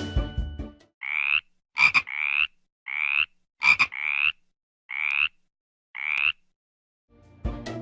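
A frog croaking six times, about one croak a second, each call short and slightly rising, with two sharp clicks among the early croaks.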